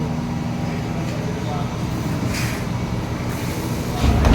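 CNC milling machine running steadily, with a brief hiss about two and a half seconds in and a low thump near the end.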